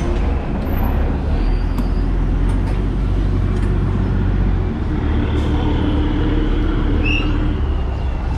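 River boat's engine running steadily: a continuous low rumble under a broad rushing noise.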